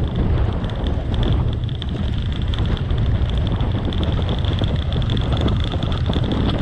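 Dirt bike engine running steadily while riding at speed, with wind buffeting the microphone.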